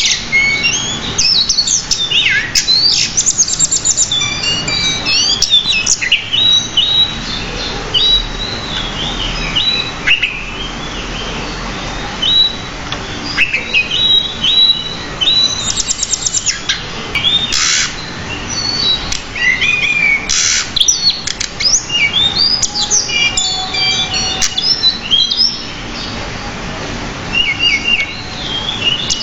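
Pied bushchat singing a long, unbroken song of quick, varied chirps, whistles and rapid trills, packed with many different phrases.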